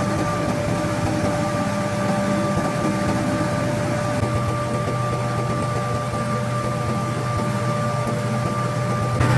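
A motor running steadily, a constant hum with two held tones over a low drone, which grows louder right at the end.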